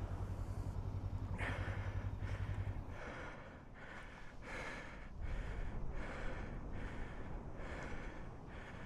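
Motorcycle engine running at idle as a steady low hum for about the first three seconds. Then a man breathes hard in quick, regular panting breaths, about one and a half a second, worn out from wrestling the bike out of the sand.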